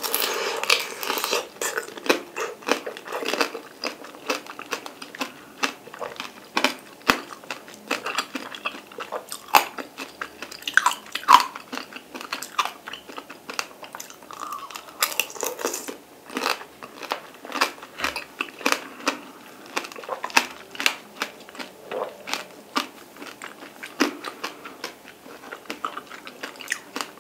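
Close-up biting and chewing of a tangerine tanghulu, its hard sugar-candy shell crackling and crunching between the teeth. Heavier bites come at the start and again about fifteen seconds in, with lighter crackling chews between.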